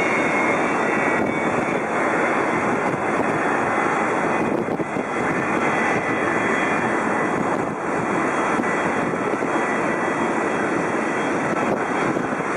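Jet airliner engines running, a loud steady rush with a faint high whine.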